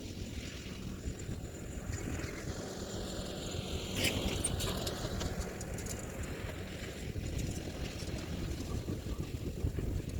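Kioti DK4710SE compact tractor's diesel engine running under load while pulling a landscape rake, the sound swelling about four seconds in.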